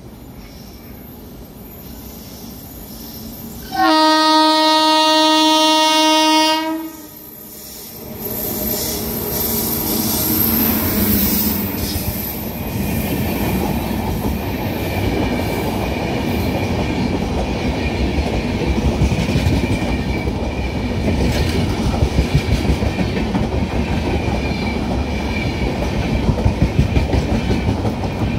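Indian Railways express train sounding one long, steady horn blast a few seconds in as it approaches, then running through the station at speed: a loud rumble of passing coaches with rhythmic clickety-clack of wheels over rail joints.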